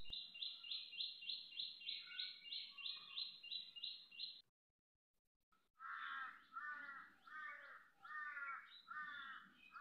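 Birds calling: a fast run of high, repeated notes, about three a second, then after a short break five harsher, lower calls a little under a second apart.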